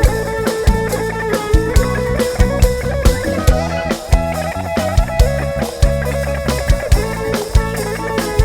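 A live Thai dance band plays an instrumental break through a PA sound system: a drum kit keeps a steady beat under bass and a held lead melody line.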